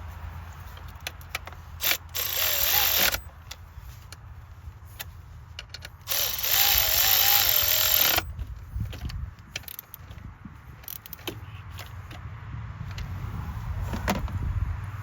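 Milwaukee M12 Fuel 3/8-inch cordless ratchet running in two bursts, about a second and then about two seconds, driving coil pack bolts.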